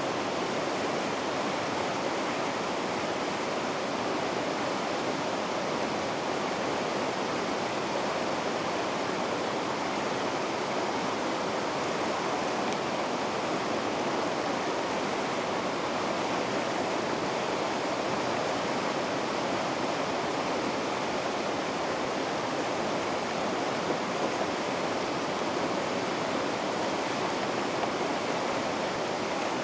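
River rapids: white water rushing steadily, with no change in level.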